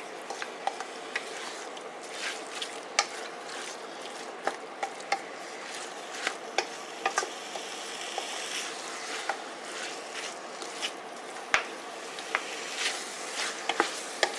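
Chicken pieces sizzling in red curry paste in a pot over high heat, with a spoon scraping and clicking against the pot at irregular moments as it is stirred.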